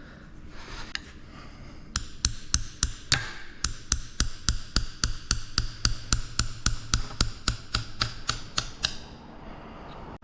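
A steady, evenly spaced run of sharp ticks, about four to five a second, from hand-tool work on a hydraulic cylinder. It starts about two seconds in and stops near the end.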